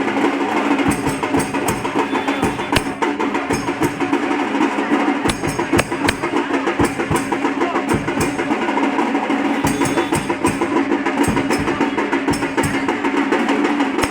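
Percussion-heavy music with drums beating a fast, even rhythm without a break.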